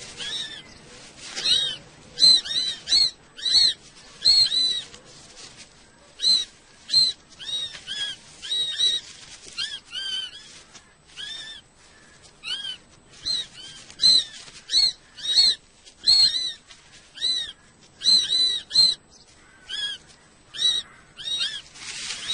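Kestrel chicks calling over and over in the nest: short calls, each rising and falling in pitch, come about one or two a second with some overlapping. These are begging calls for food.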